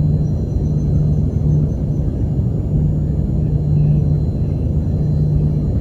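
Space shuttle launch: the rocket engines give a steady, loud, deep rumble.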